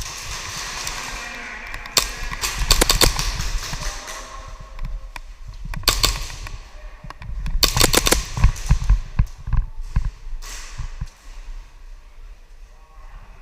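Airsoft pistols firing: quick strings of sharp cracks in several volleys a few seconds apart, the loudest cluster about eight seconds in, over a low rumble.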